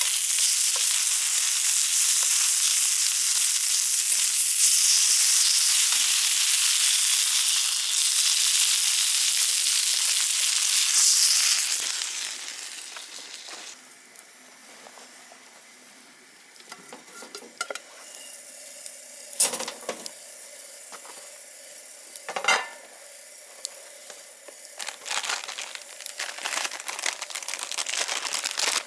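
Food sizzling in hot oil over a campfire, loud and steady, dying away about twelve seconds in. Quieter scattered clicks and two sharp knocks follow.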